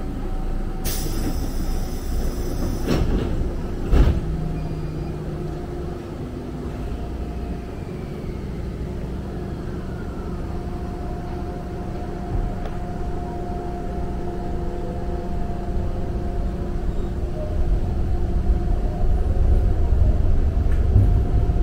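Electric commuter train heard from inside the car as it pulls away from a station: a hiss of air about a second in and two sharp knocks. Then comes a steady motor hum over a rumble that grows louder near the end as the train gathers speed.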